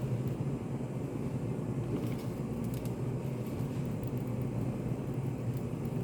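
Steady low rumbling white noise of a study cafe, an even hum with no changes, with a few faint light clicks about two to three seconds in.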